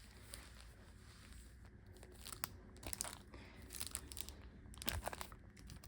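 Packets of stickers being handled, giving faint scattered crinkles and rustles that become more frequent about two seconds in.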